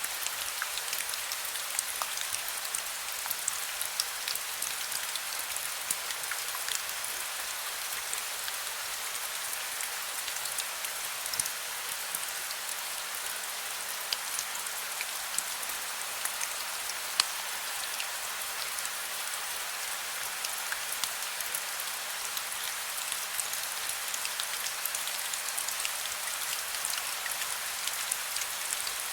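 Heavy rain falling steadily, a dense even hiss spotted with many sharp ticks of single drops striking a surface.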